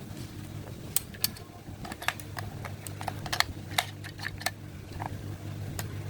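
Irregular sharp clicks and taps of small hard objects being handled, about fifteen in all, over a steady low hum.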